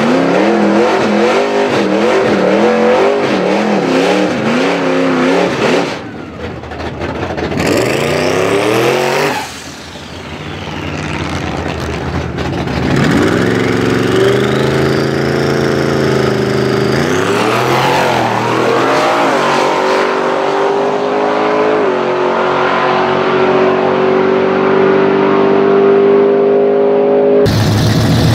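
Twin-turbo Ford Coyote V8 Mustang engine revved in quick up-and-down blips. It then accelerates hard: the pitch climbs, dips once at a gear change, and holds a long rising pull at high revs.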